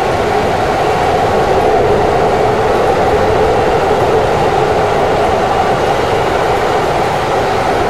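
Keikyu electric commuter train running at speed, a steady rolling rumble and rush of wheels on rail heard from inside the front cab.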